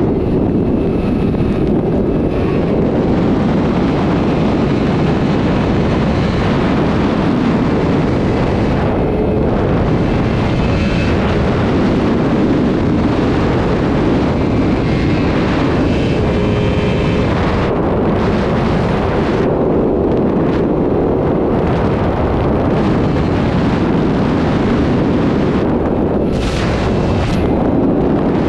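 Sport motorcycle riding at high speed, its engine running under heavy wind buffeting on the microphone. The noise stays loud and steady.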